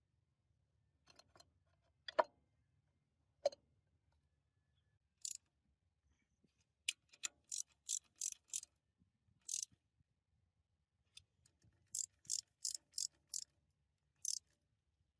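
Restoration work on machine parts: two sharp knocks about two and three and a half seconds in, then clusters of short, hissy strokes a fraction of a second each, several a second.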